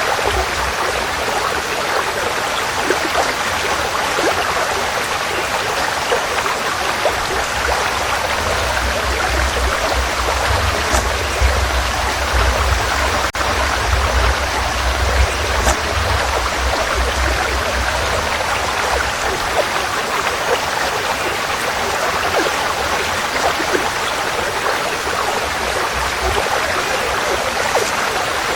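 Forest stream flowing steadily: a constant rush of running water with small splashes scattered through it. A deeper rumble swells for several seconds in the middle.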